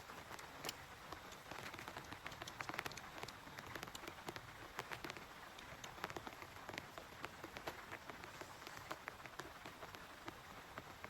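Rain falling, with many separate drops tapping sharply over a steady soft hiss.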